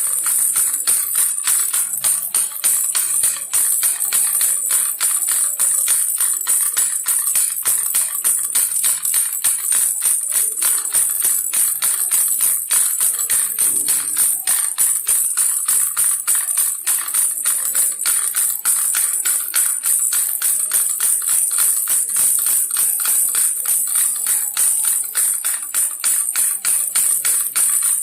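Baby rattle shaken without pause: a dense, rapid, steady rattling.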